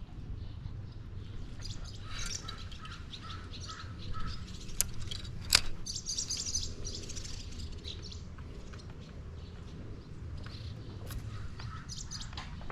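Several birds chirping and calling with short repeated notes, over a low steady rumble. A single sharp click about five and a half seconds in.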